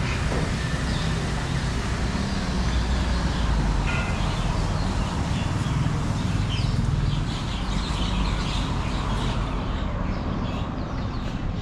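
Street ambience: a steady low engine and traffic rumble, with many short bird calls, more of them in the second half.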